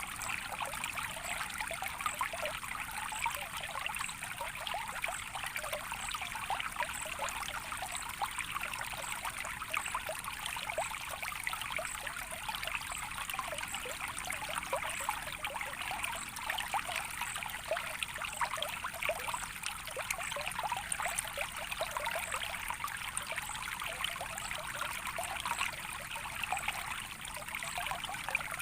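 Gently flowing water trickling steadily, with many small splashes and gurgles.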